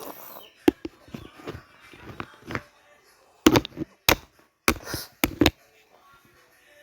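A series of sharp knocks or taps, about six, most of them bunched in the second half, with short bits of a voice in between.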